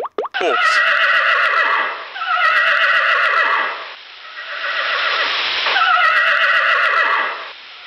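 Horse neighing: three long whinnies in a row, each falling in pitch.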